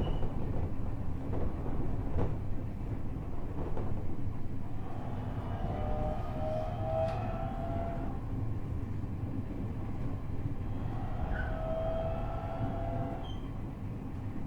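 Interior running sound of a JR East E127-series EMU motor car (Toyo Denki GTO-VVVF, 14:99 gearing) at speed: steady rail and wheel rumble with a couple of sharp clicks near the start. A whine of several level tones rises up twice, mid-way and near the end. This car's gear whine carries an extra tone a semitone above the usual minor-seventh interval, a known abnormal noise.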